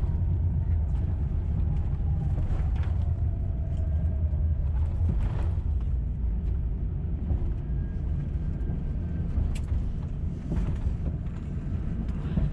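Inside the cabin of an Airbus A350-900 rolling on the ground just after landing. There is a steady low rumble, with the whine of its Rolls-Royce Trent XWB engines falling in pitch over the first few seconds as they wind down, and a few knocks from the wheels over joints in the pavement.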